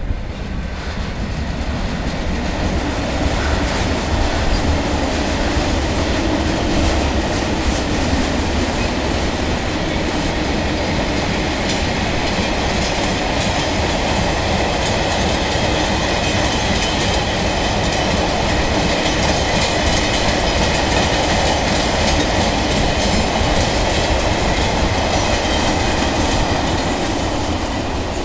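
Mixed freight train rolling past at steady speed, its wagons' wheels rumbling and clattering over the rail joints, with a faint high wheel squeal in the second half.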